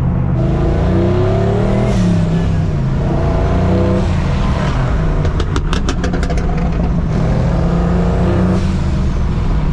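Twin-turbo Chevy C10 pickup engine accelerating hard. The pitch climbs and drops back at each gear change, a few times over, with a quick rattle of sharp clicks around the middle.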